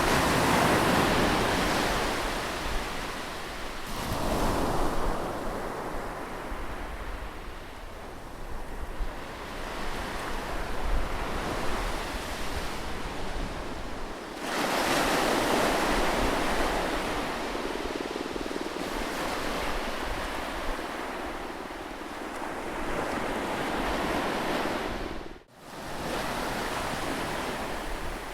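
Ocean surf breaking on a beach, the wash swelling and fading in surges, with the biggest at the start and about halfway. Wind rumbles low on the microphone, and there is a brief sudden drop in sound near the end.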